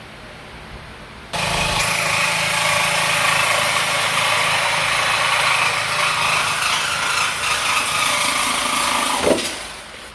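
Power tool cutting through the steel exhaust piping. It starts abruptly about a second in, runs steadily at a high pitch, and winds down with a falling tone near the end.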